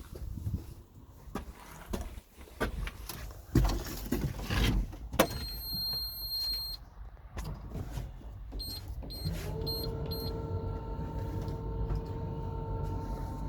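2011 JCB JS160 excavator being started: clicks and knocks in the cab, then a long electronic warning beep and, a few seconds later, four short beeps. About nine seconds in, the diesel engine starts up and settles into a steady idle.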